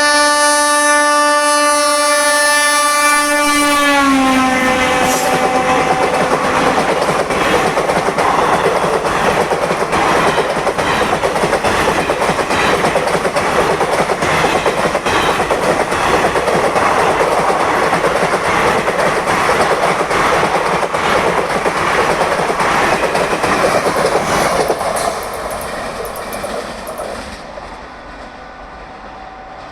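WAG-9HC electric locomotive's twin-tone horn blaring, dropping in pitch about four seconds in as the locomotive passes. Then the express train's coaches rush past with the clickety-clack of wheels over rail joints for about twenty seconds, fading away near the end.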